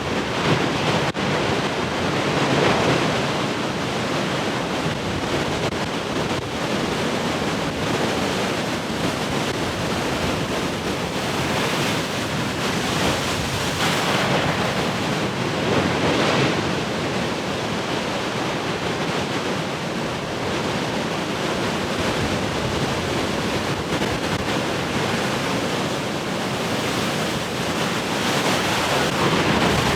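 Large ocean waves breaking on the shore: a continuous wash of surf that surges louder a few times as bigger waves come in, with wind on the microphone.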